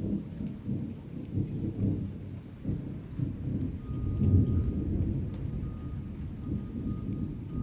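Thunder rumbling through a rainstorm, a low, surging roll that swells loudest a little past halfway.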